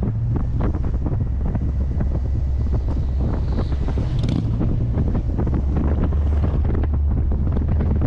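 Heavy wind buffeting the microphone of the moving C3 Corvette, in dense irregular gusts over a steady low drone from the car's 350 small-block V8.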